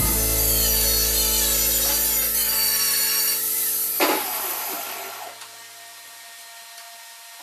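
Power grinder running against the sheet-metal body of a 1955 Chevy, with a sharp burst of grinding about four seconds in, then the tool fades off and winds down.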